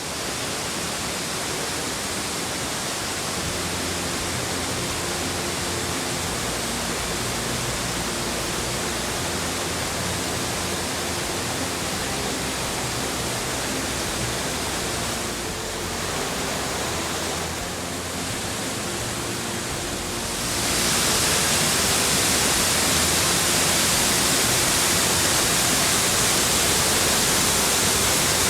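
Small waterfall, falling water rushing as a steady loud hiss. It gets louder and brighter about twenty seconds in.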